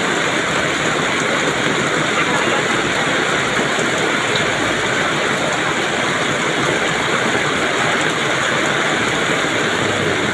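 Steady downpour of rain, a dense even rush of noise with no breaks.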